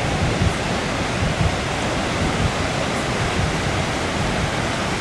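Steady rushing noise of ocean surf breaking on the beach, with an uneven low rumble underneath.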